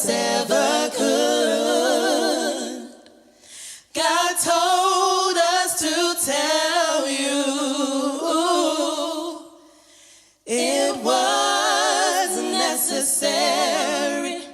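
Choir singing a cappella in three phrases broken by short pauses, the sound ending sharply at the last phrase.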